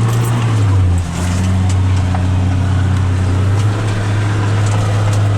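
Off-road 4x4 vehicle's engine running with a steady low drone that dips briefly and shifts in pitch about a second in.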